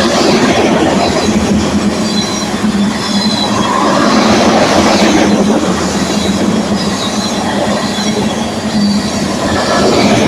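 Freight train of petroleum tank wagons rolling past on steel rails, a steady rumble of wheels with thin high wheel squeals coming and going.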